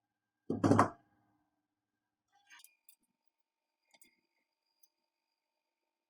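Light clicks and taps of small plastic wire connectors being handled and pressed onto a microwave oven control board, after one brief louder sound about half a second in.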